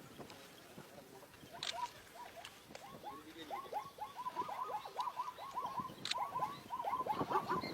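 Many short animal calls, each falling quickly in pitch, overlapping more and more densely from about two seconds in, with a few sharp clicks.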